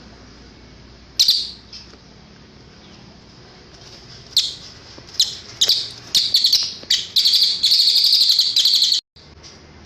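Cililin songbird singing: a single high note, then a run of sharp chirps that speed into a fast, loud trill which cuts off abruptly.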